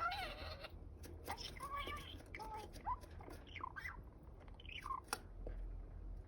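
Male budgerigar chattering to himself: a string of short warbled chirps and squawky notes that bend up and down, with sharp clicks between them.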